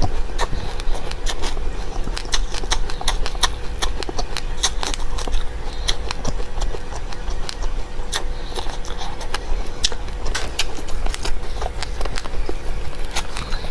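Seeds being chewed and crunched close to the microphone: a rapid, irregular run of sharp little cracks and clicks over a steady low hum.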